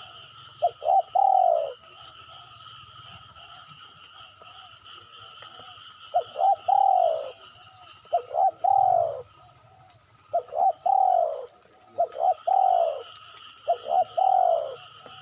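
Spotted dove (derkuku) cooing: repeated phrases of two or three short coos followed by a longer coo that rises and falls, about one phrase every two seconds, played as a lure call. A steady high whine runs beneath.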